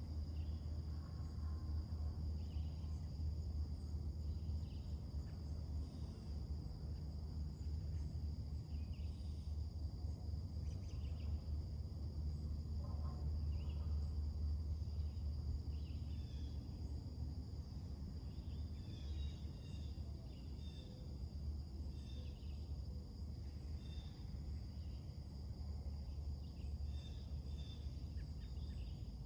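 Summer morning outdoor ambience: a steady high insect drone under short, scattered bird chirps, over a low steady rumble.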